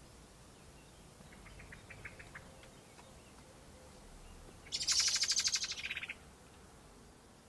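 A bird's call: a faint short series of quick notes, then a loud, fast rattling trill lasting about a second and a half.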